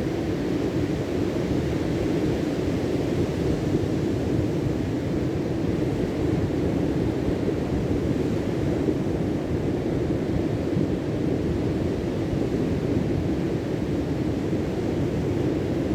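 Steady low rushing noise with no distinct events or changes.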